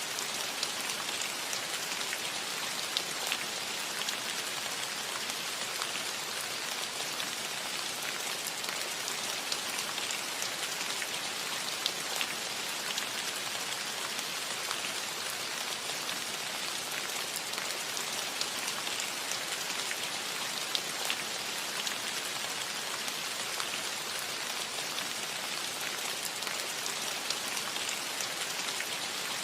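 Steady rain falling on a cottage roof: an even hiss with many small scattered drop ticks.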